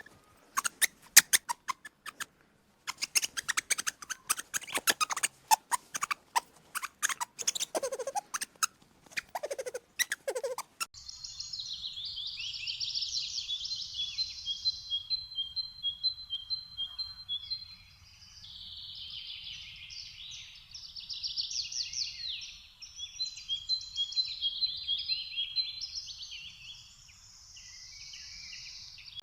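Small birds chirping and singing. For about the first ten seconds there are sharp, rapid chirps. Then comes a dense chorus of high twittering song with repeated trills.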